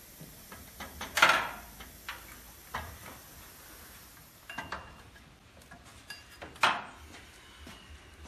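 Metal hand tools and engine parts clinking and clanking during work on a Ford 5.0 small-block's accessories: a few sharp metallic knocks with short ringing, the loudest about a second in and again past the middle, with lighter clicks between.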